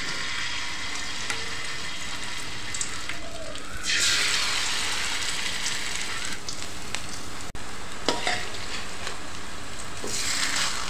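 Kakrol (spiny gourd) fritters in rice-flour batter sizzling steadily in hot oil in a metal kadai. The sizzle is louder for a couple of seconds about four seconds in.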